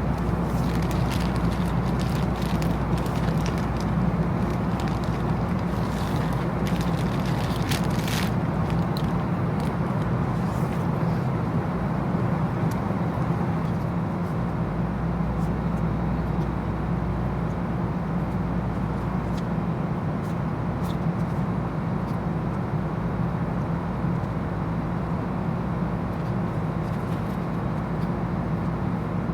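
Steady low rumble of a moving vehicle, even throughout, with a few light clicks in the first eight seconds or so.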